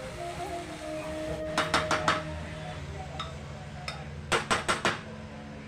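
Metal utensils clinking against a cooking pan in two quick runs of four or five strikes, about one and a half seconds in and again near the end. Soft background music plays throughout.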